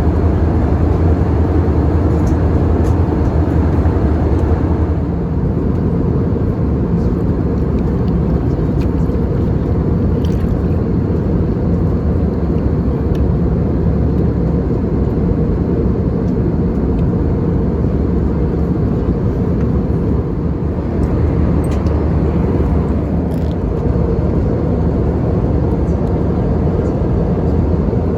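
Steady engine and airflow noise inside the cabin of an Airbus A320-200 in flight, easing slightly about five seconds in, with a few faint clicks.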